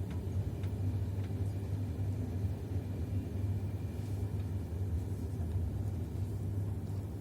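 Steady low rumble of the Doğu Ekspresi passenger train running along the track, with a few faint clicks in the first second or so.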